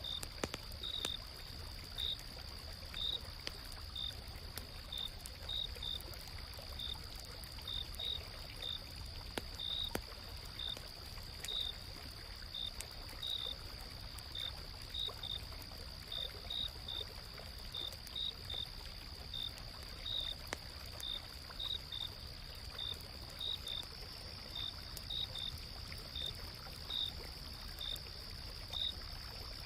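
Night insects calling: a steady high trill with short high chirps repeating about once or twice a second, over the soft steady rush of a flowing stream. Scattered faint crackles, like a campfire, come through now and then.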